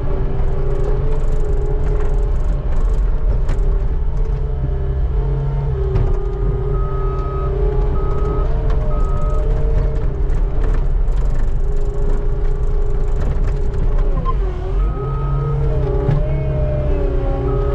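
A skid steer's engine runs steadily under working load, with a whine from the hydraulics and a few sharp knocks from the bucket scraping. Its pitch dips and recovers once about three-quarters of the way through. A backup alarm beeps in several short runs.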